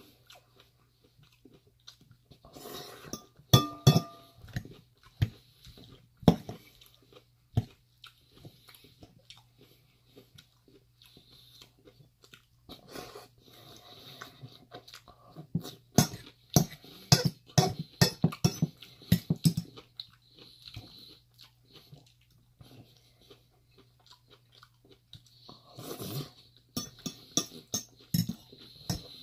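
Crunchy chewing of fresh lettuce leaves close to the microphone, in three bouts of crisp crunches with quieter gaps between.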